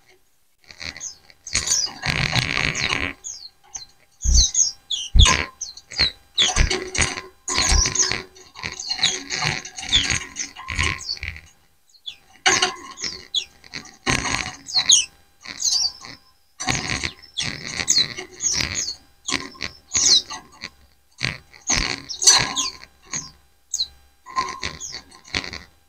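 A flock of white-eyes chirping and twittering over one another: many quick, high chirps and short sliding notes in dense bursts, with brief pauses between them.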